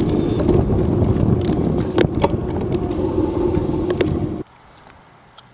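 Wind buffeting the microphone of a bike-mounted action camera on a fast downhill, with scattered sharp knocks from the bike over the road. It cuts off suddenly about four seconds in, leaving only a faint hum.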